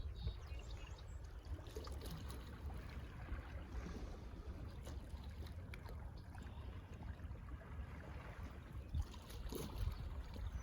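Distant GO Transit commuter train rumbling, with water lapping and trickling at the lakeshore.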